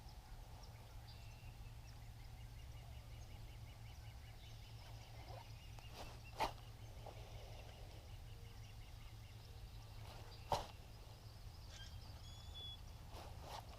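Faint birdsong trills over a low steady rumble, with two sharp clicks about four seconds apart standing out as the loudest sounds.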